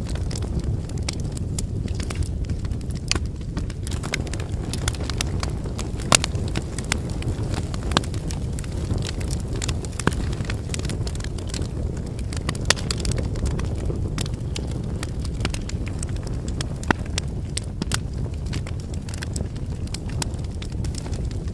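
Wood campfire burning: a steady low rush of flames with constant crackling of firewood and a few louder sharp pops.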